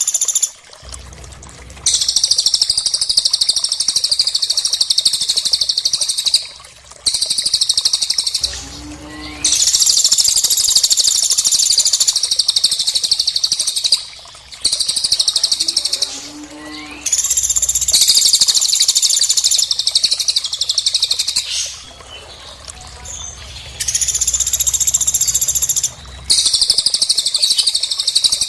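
Bird song: long, rapid, high-pitched chattering phrases lasting a few seconds each, broken by short pauses. In two of the pauses there is a brief lower call that rises in pitch.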